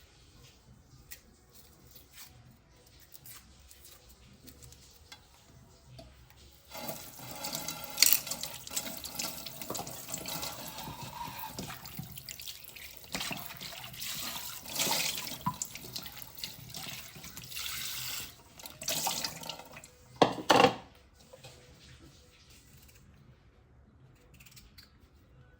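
Tap water running into a sink for about eleven seconds, starting about seven seconds in after a few faint clicks, then cut off. Two short gushes follow a little later.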